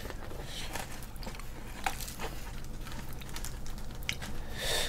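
Quiet chewing of fried chicken, with scattered small crunches and clicks as pieces are bitten and picked from the box.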